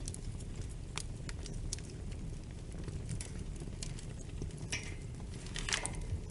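Fireplace fire crackling: a steady low rumble with scattered sharp pops and snaps, and a louder cluster of crackles about five to six seconds in.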